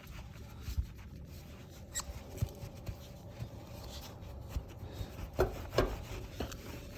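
Intermittent rubbing and light handling knocks as a chrome motorcycle wheel rim is cleaned and polished by hand, with a few sharper small knocks near the end.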